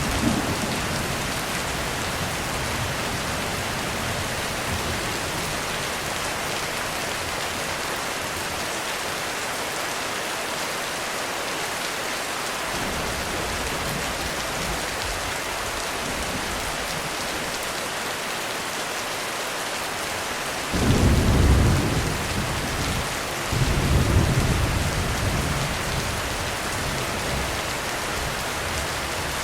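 Heavy rain falling steadily in a thunderstorm. Thunder rumbles twice about two-thirds of the way through, the first roll the louder.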